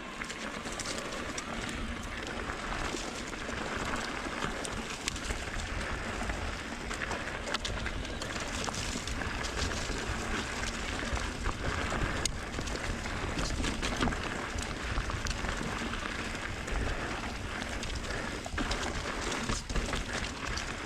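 Mountain bike descending a dirt trail: tyres rolling over dirt and gravel, with wind rushing past and frequent sharp clicks and knocks from the bike jolting over bumps.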